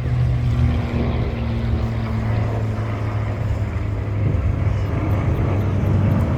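A steady low engine drone with an even hum and a faint higher tone in the first half.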